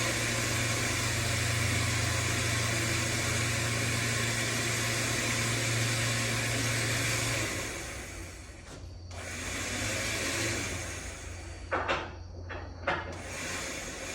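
A motor-driven machine running steadily with a low hum and hiss, shutting off about halfway through, followed by a couple of sharp knocks near the end.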